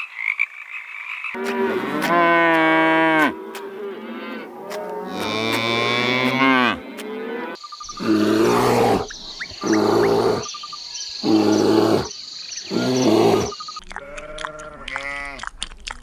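A run of animal calls: frog croaking briefly at the start, then a cow mooing in two long, low calls, then four shorter calls about a second each, and bleating near the end.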